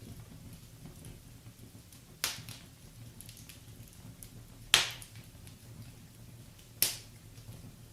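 Wood fire burning in a fireplace, crackling softly with three sharp, loud pops from the burning logs, about two seconds apart.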